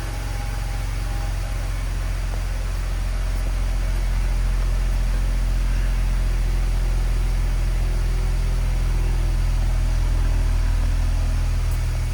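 2004 BMW Z4's 2.0-litre engine idling steadily.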